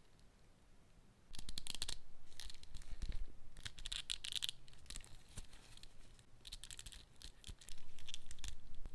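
Toy packaging being torn and unwrapped by hand: bouts of tearing and rustling with small clicks, starting about a second in, with a louder stretch near the end.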